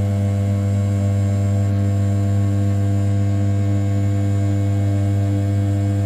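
500 W brushless spindle of a converted RZ420 desktop CNC mill running at 6000 rpm, its end mill roughing the outer profile of an A7075 aluminium block: a steady hum with many overtones and a faint high whine.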